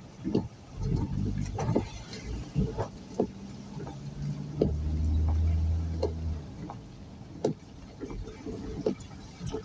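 Vehicle on the move, with a low engine hum that grows stronger for about two seconds midway and frequent sharp knocks throughout.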